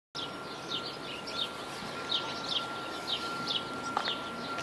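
Small birds chirping: short, high, downward-sliding chirps repeated every fraction of a second over a steady outdoor background, with a faint steady high tone underneath.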